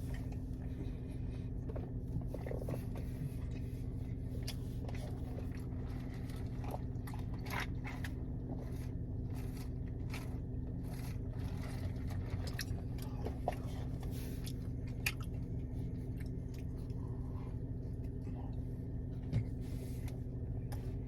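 Close-up eating sounds: a person biting and chewing a dense McDonald's biscuit, with scattered small clicks and scrapes. A steady low hum runs underneath.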